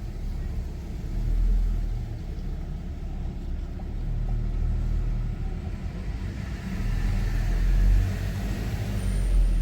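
Car driving along a road, a steady low rumble of engine and tyre noise that swells twice.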